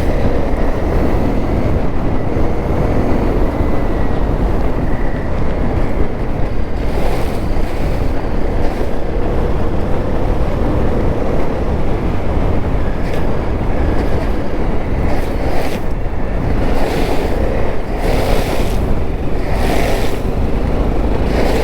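Wind rushing over the microphone while a Honda CRF250L dual-sport motorcycle is ridden, its single-cylinder four-stroke engine running underneath. Short bursts of hiss come several times in the second half.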